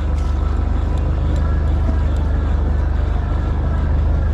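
Boat engine running steadily with a deep, even drone.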